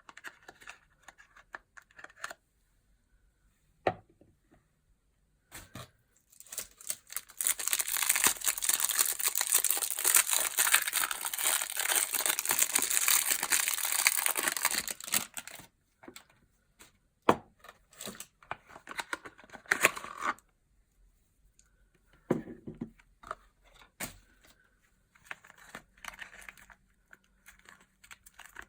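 Packaging being torn open and crinkled by hand: scattered rustles and clicks, then several seconds of continuous loud tearing, then more handling rustles and a few sharp clicks.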